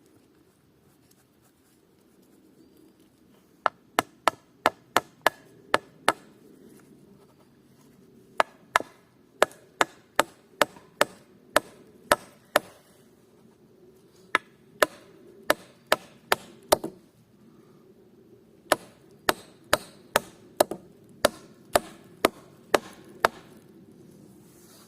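Hammer driving nails into wood: sharp, evenly paced blows about two a second, in four runs of several strikes each with short pauses between.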